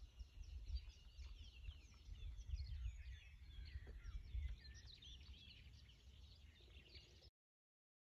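Songbirds chirping and singing: many short, quick calls over a low rumble. The sound cuts off abruptly near the end.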